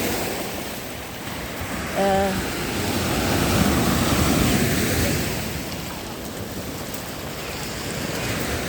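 Lake Ontario waves washing up onto the beach, the wash swelling in the first half and easing off, with wind buffeting the microphone.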